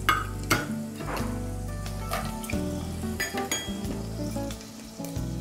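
Whole spices and cashews sizzling as they fry in hot oil in a pressure cooker, with a spoon stirring and knocking against the pan a few times.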